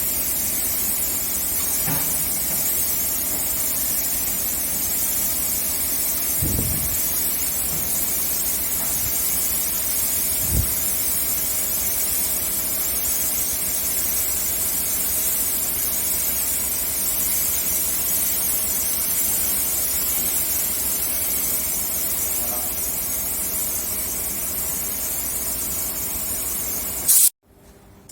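A steady loud hiss over a faint steady hum, with a couple of soft low thumps in the first half; it cuts off abruptly near the end.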